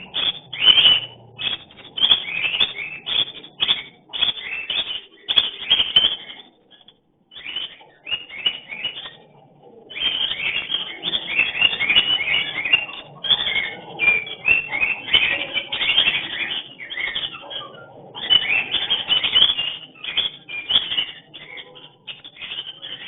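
Cockatiels calling and chirping in dense runs of short whistles, a mating call between a male and a female. The calling breaks off for about three seconds after the first third, then starts up again.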